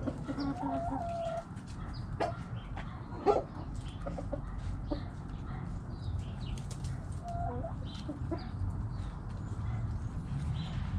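Backyard hens clucking: scattered short clucks and a couple of wavering calls, the loudest cluck about three seconds in, over a steady low rumble.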